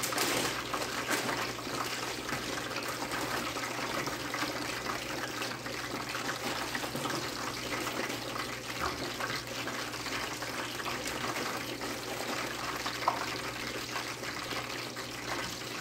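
Chicken frying in hot grease in a covered pot: a steady sizzle, with faint taps and crinkles as floured potato strips are taken from a plastic bag and laid on a cutting board.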